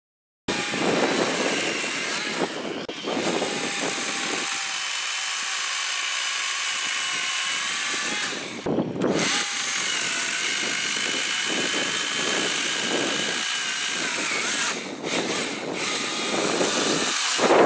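Chainsaw running and cutting wood, with a few brief dips.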